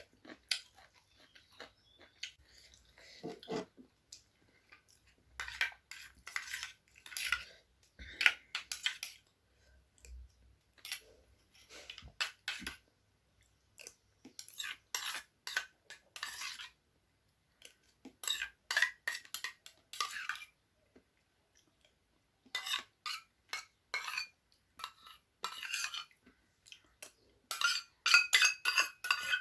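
Spoon scraping and clinking against a plate in short bursts while scooping up rice and chicken curry, with a quick run of ringing clinks near the end.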